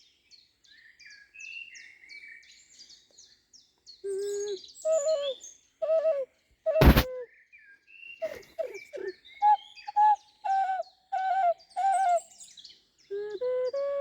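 Bird chirps, then an ocarina in G# playing short hooting notes of a minor pentatonic scale about four seconds in while the chirps continue, with one sharp click about seven seconds in.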